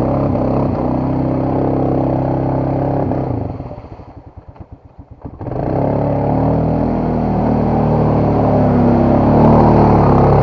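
Dirt bike engine running under load, then dropping about four seconds in to a slow, uneven firing that nearly stalls, before picking back up and revving again.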